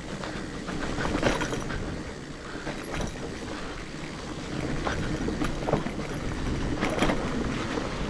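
Fat bike riding over rough ground: a steady tyre and wind rumble on the microphone, with irregular knocks and rattles from the bike.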